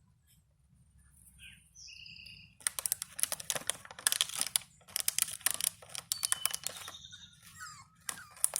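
Schnauzer puppies scrabbling and rustling about, a rapid run of scratchy clicks that starts a couple of seconds in, with a few faint high squeaks.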